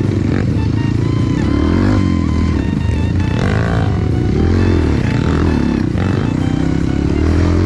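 Trail motorcycle engine running under way, its pitch rising and falling as the throttle is opened and closed, with background music over it.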